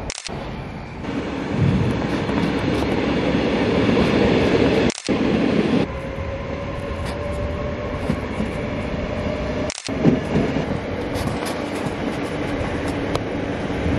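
Electric NS passenger trains moving through a station, with a steady rumble of wheels on the rails. In the middle there is a faint, slightly rising motor whine. The sound breaks off abruptly and resumes three times.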